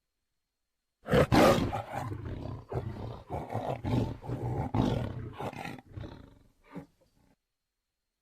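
Tiger growling: a loud, rough growl starts about a second in and pulses roughly every two-thirds of a second, then dies away with one short last grunt.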